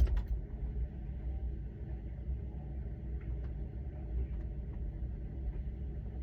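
Refrigerator running, heard from inside with the door shut: a steady low hum with a few faint ticks.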